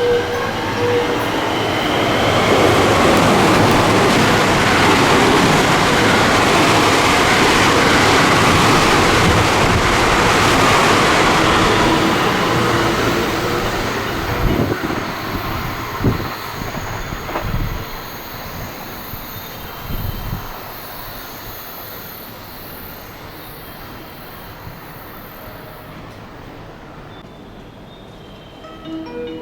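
A train passing through the station at speed: a loud rush of wheels and running gear for about ten seconds, then fading away, with a few knocks of wheels over rail joints as it goes.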